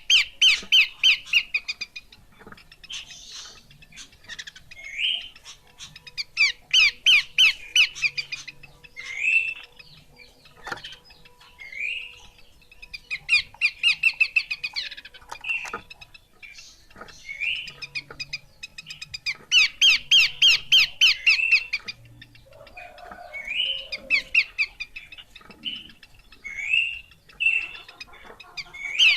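Horsfield's babbler (pelanduk semak) calling: short rising whistled notes alternating with fast, harsh chattering runs of about a second and a half, repeated every few seconds.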